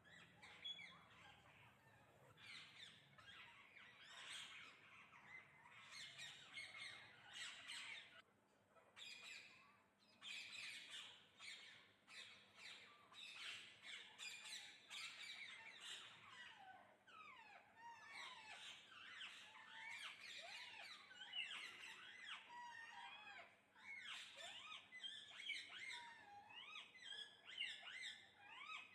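Many parrots calling at once: a constant chatter of short, overlapping calls that rise and fall in pitch.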